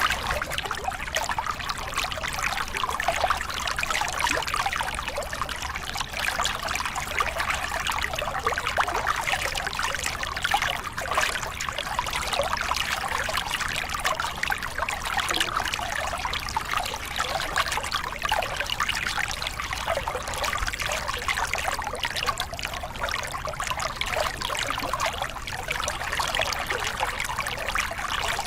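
A small cascade on a river, water pouring and splashing over rocks in a steady, even rush with many fine splashes.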